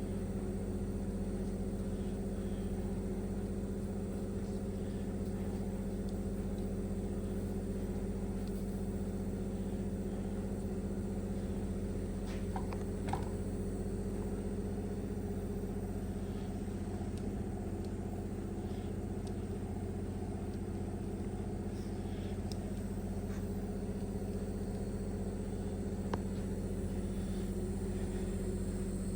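A steady low mechanical hum with a few faint clicks around the middle and near the end.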